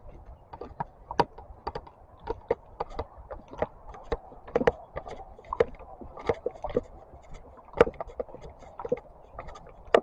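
Irregular clicks and knocks, two or three a second, from an action camera in a waterproof case being handled and jostled while walking.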